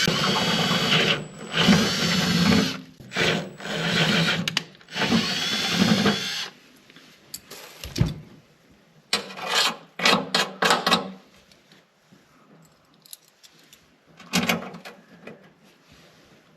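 Power drill boring bolt holes through the aluminum of a jon boat for a deck hinge, run in several bursts of a second or so with its motor whine rising and falling. It stops about six seconds in, followed by a few knocks and short bursts.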